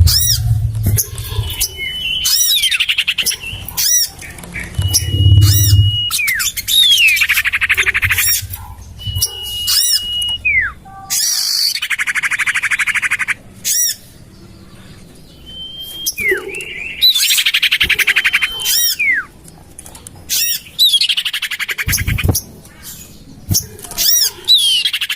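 Common iora (cipoh/sirtu) calls played as a bird-trapping lure. Bouts of flat whistled notes, falling slurs and fast high chattering trills repeat with short pauses between them. A low rumble sits under the calls at the start and again about five seconds in, and a single thump comes near the end.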